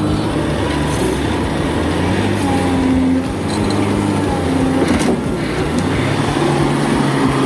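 Heavy truck's diesel engine running under load, its note rising and falling a few times.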